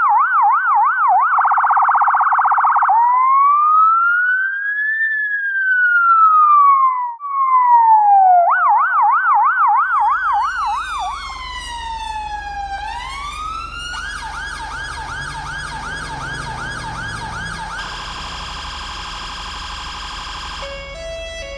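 Electronic emergency-vehicle siren cycling through its modes: a fast yelp, a brief rapid warble, then slow wails that rise and fall, and the yelp again. From about ten seconds in, a low engine rumble joins and the siren takes a fuller tone, sweeping down and up before yelping and holding a pulsing tone near the end.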